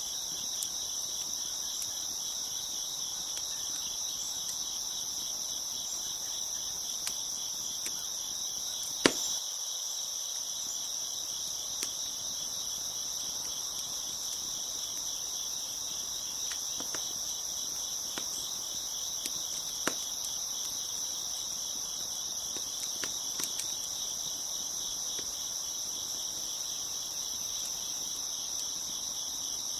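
Steady chorus of crickets chirping, with a few scattered sharp pops from a crackling wood fire, the loudest about nine seconds in.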